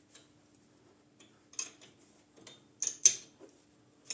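A few sharp metallic clinks and clanks of steel tools and parts being handled on a lathe, the loudest about three seconds in, over a faint steady hum.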